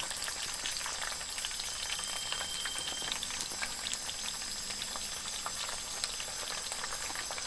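Hot oil sizzling and crackling steadily in a pan, frying eggs.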